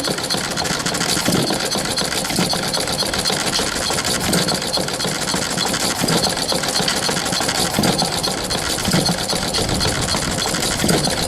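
Olds hit-and-miss single-cylinder engine running under governor control: it coasts through several revolutions without firing, the exhaust valve held open, then fires with a low pop roughly every one to two seconds. A fast mechanical ticking from the moving valve gear runs between the firings.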